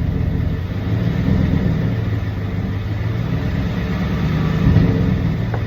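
Ford F-150's 5.0-litre Coyote V8 running steadily with a little throttle in reverse, rear wheels spinning freely off the ground; the weird reverse noise being chased does not show up with the rear end lifted. A brief click near the end.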